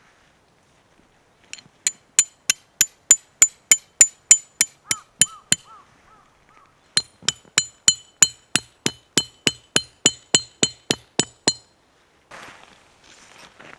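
A hammer driving a steel tent peg: two runs of sharp, ringing metal-on-metal blows, about three a second, each run lasting about four seconds with a short pause between.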